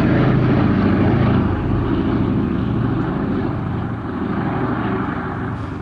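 Boeing B-17G Flying Fortress's four Wright Cyclone radial piston engines droning in flight, slowly fading as it moves away.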